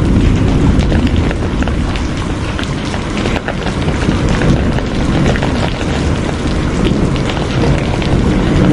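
Steady heavy rain, a dense hiss of drops with many individual drop ticks, over a continuous deep low rumble.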